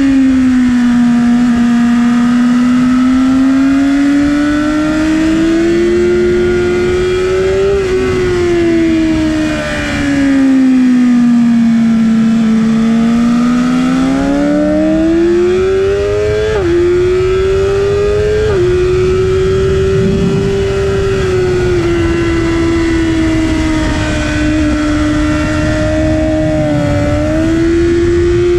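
Stock 2019 BMW S 1000 RR's inline-four engine at high revs on track, with wind noise. The revs fall under braking and climb hard out of corners twice, then two quick upshifts about two-thirds of the way through each drop the pitch suddenly, and the engine holds a fairly steady high note to the end.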